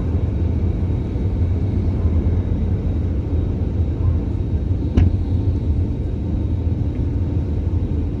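Airliner's jet engines and airflow during takeoff, a steady low rumble, with a single short click about five seconds in.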